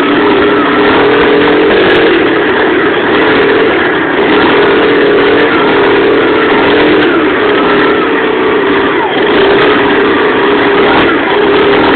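Loncin-engined pit bike's single-cylinder four-stroke engine running, its revs rising and falling repeatedly under throttle.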